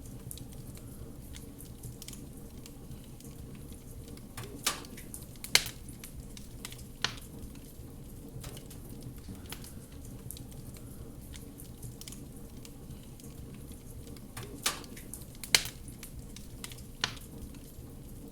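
Wood fire crackling: a steady low rumble of burning with sharp pops, six in all, coming in two groups of three.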